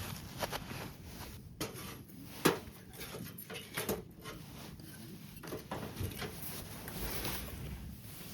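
Scattered small knocks and clicks at an uneven pace, the loudest about two and a half seconds in.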